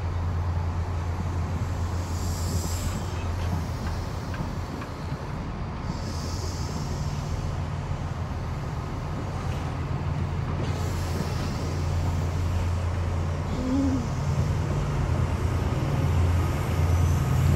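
Chiltern Railways loco-hauled train of Mark 3 coaches moving slowly along a platform, with a steady low drone that grows louder near the end. A few short hisses come and go.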